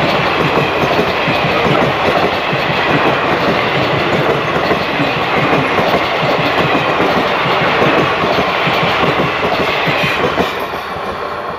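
Coaches of a speeding Indian Railways express passing close by, their wheels clattering over the rail joints in a rapid clickety-clack. The sound fades near the end as the train moves away.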